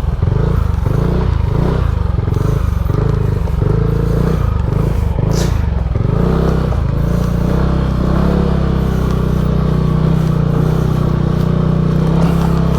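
Motorcycle engine running as the bike is ridden slowly, its pitch rising and falling for the first half and then settling steady. A brief hiss sounds about five seconds in.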